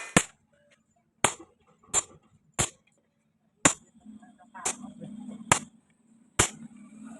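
Hammer striking metal, about eight sharp blows spaced unevenly roughly a second apart, each with a brief bright ring. A faint low hum runs underneath from about four seconds in.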